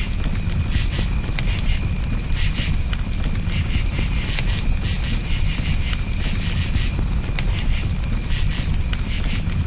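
Crickets chirping in quick pulsing trills over a crackling campfire, with a steady low rumble underneath.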